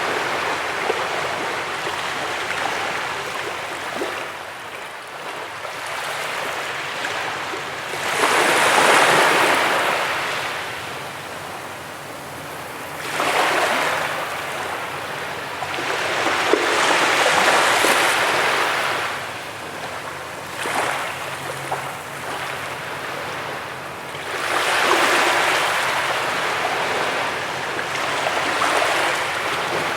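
Ocean surf on a beach: waves breaking and washing in, the rush of water swelling and ebbing, with louder surges every several seconds.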